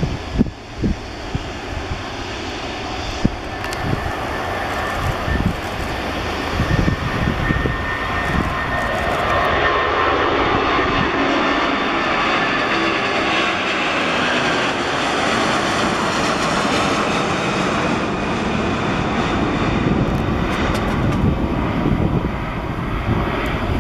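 Airbus A330-243 airliner's Rolls-Royce Trent 700 turbofans passing close by, the jet noise building to its loudest about halfway through and then holding, with a whine that bends in pitch as it passes. Wind buffets the microphone in short thumps near the start.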